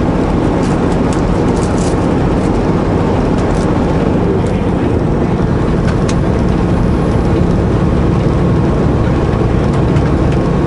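Semi-truck diesel engine pulling steadily under load, heard from inside the cab, with steady road noise from the tyres running on snow chains and a few faint clicks in the first half.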